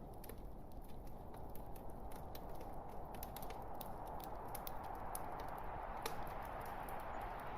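Log fire crackling: irregular sharp pops and snaps over a steady hiss of burning wood.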